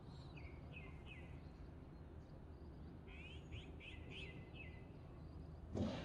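Small songbirds calling from the trees in quick runs of short, falling chirps, two clusters a few seconds apart, over a steady low background rumble. A brief thump near the end.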